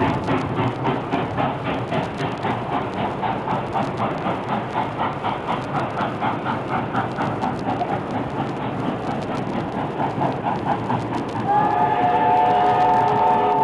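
Recording of a real steam locomotive played from a vinyl train-sounds record: a rapid, even beat of the running train, then about 11.5 s in a multi-note steam whistle blows, held to the end and louder than the running.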